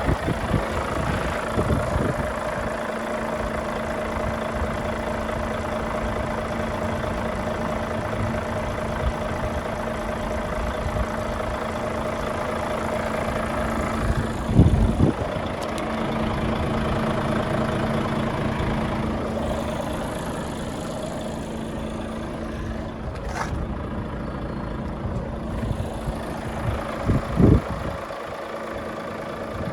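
Volvo FH500 truck's 13-litre straight-six diesel idling steadily. A couple of brief low thumps come, once about halfway and again near the end.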